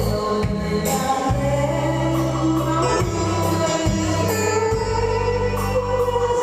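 A person singing a song over instrumental backing music with a sustained bass line that changes note about once a second.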